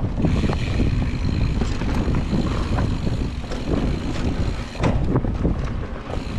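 Mountain bike riding along a dirt trail: low wind rumble on the action camera's microphone, with frequent clicks and knocks from the bike rattling over the ground.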